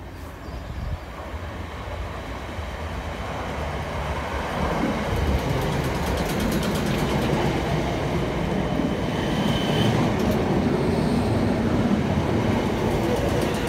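South Western Railway electric suburban train running past the platform close by, getting steadily louder as the carriages go by, with some clicks from the wheels and a brief high tone about nine and a half seconds in.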